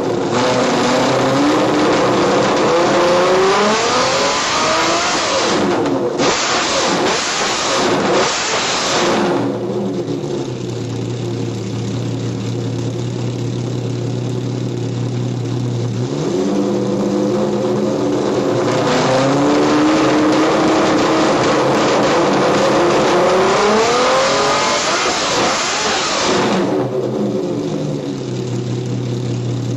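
Ferrari F50's V12 engine through a Larini race exhaust with test pipes, being revved: several quick revs rising and falling in the first nine seconds, settling to a steady idle about ten seconds in. From about sixteen seconds the revs climb in a longer build that peaks near twenty-five seconds, then drop back to idle.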